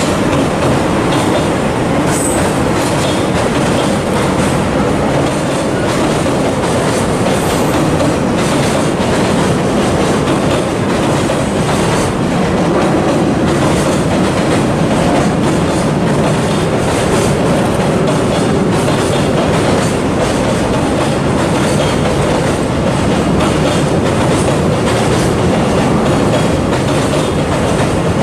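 A freight train's wagons rolling steadily past on the rails, with the wheels running over the track for the whole stretch.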